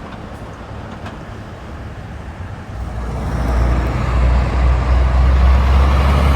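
Road traffic in the background, then a heavy truck approaching: its low engine rumble and road noise build up and grow loud from about three seconds in.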